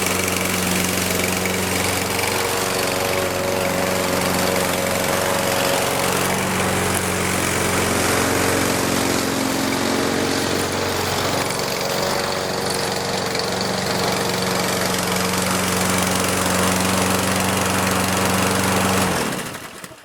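Briggs & Stratton engine of a Husqvarna push lawn mower running steadily at speed without stalling, a sign that the repaired handle has cured its shutting down. It stops suddenly near the end.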